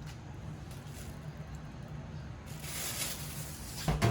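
Cooking in a pan just after sauce has gone in. Under a steady low hum, a hiss rises about two and a half seconds in and lasts a second and a half, ending in a few sharp knocks of a utensil.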